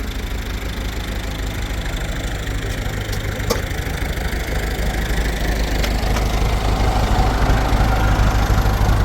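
A steady low motor hum that grows slightly louder toward the end, with a few sharp clicks early on.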